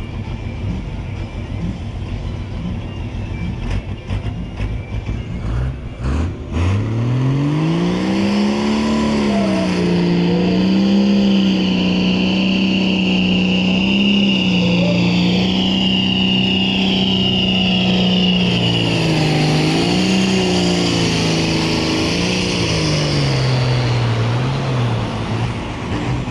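Competition pulling tractor's engine making a run. About six seconds in the revs climb sharply, then hold high and steady with a few brief dips and a high whistle above, before falling away near the end.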